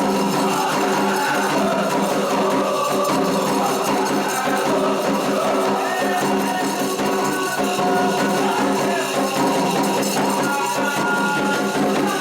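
Candomblé ritual music: steady rhythmic percussion with a shaken, jingling rattle and voices singing a chant.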